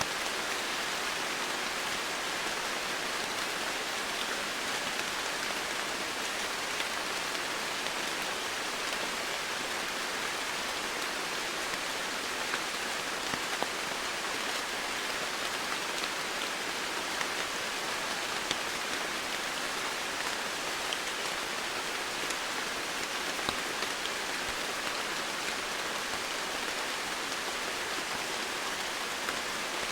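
Steady rain falling on foliage and surfaces, an even hiss with scattered individual drops ticking through it.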